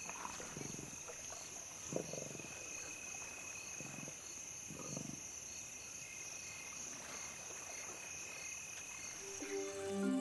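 Steady night chorus of crickets and other insects, with a faint regular pulsing chirp. Four short, low animal sounds, like grunts or growls, come through it in the first half.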